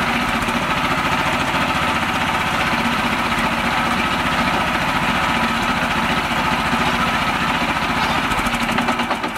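Small mini-tractor engine running steadily with an even pulsing beat.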